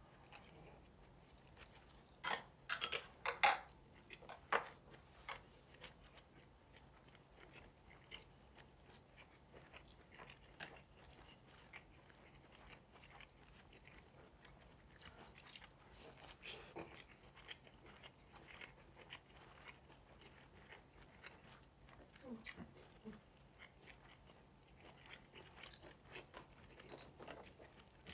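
Close-up eating sounds: chewing of rice and side dishes, with light clicks of chopsticks and spoons against the dishes. A few louder clicks and crunches come about two to five seconds in.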